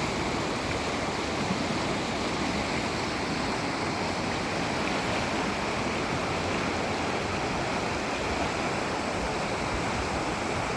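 Creek running high with spring snowmelt runoff: steady rushing of fast water.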